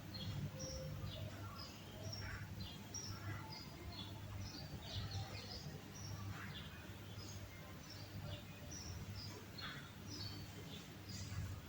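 Small birds chirping faintly in the background, with many short high chirps scattered through, over a steady low hum.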